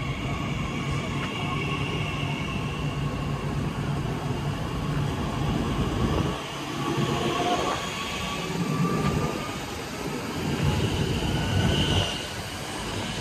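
Train running on the rails: a steady low rumble with faint high whines over it, dipping briefly about six seconds in.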